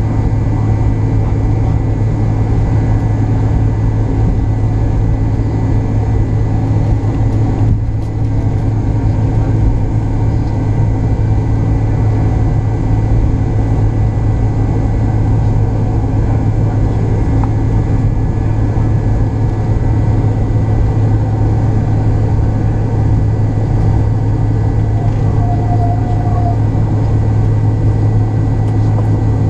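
McDonnell Douglas MD-88's rear-mounted Pratt & Whitney JT8D turbofans running with a loud, steady drone and a strong low hum.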